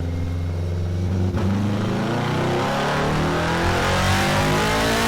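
Kawasaki Z1000's inline-four engine through a pair of Delkevic Mini 8-inch carbon fibre short round silencers, running on a dyno. It holds steady at first, then about a second and a half in the revs start to climb steadily, as in a dyno pull.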